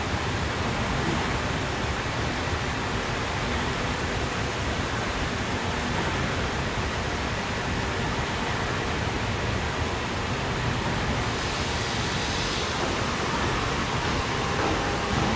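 Steady rushing noise of glass-processing machinery running, with a faint steady whine above it.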